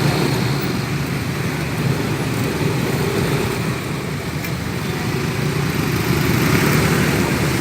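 Steady road traffic noise heard while riding a motorcycle: motorbike and car engines running with the rush of moving air and tyres.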